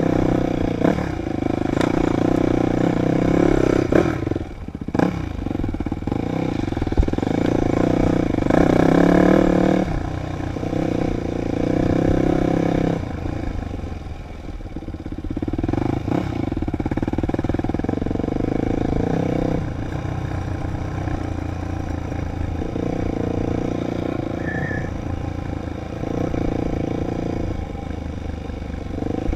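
Dirt bike engine revving up and down under changing throttle, easing off for a few seconds around the middle, with a few sharp knocks about four to five seconds in.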